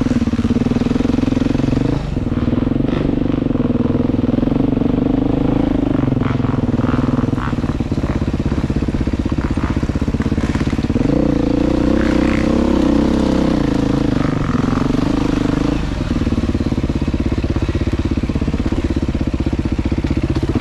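Motorcycle engine running steadily under throttle, its pitch shifting down and back up a few times as the revs change. Scattered light clatter in the first half.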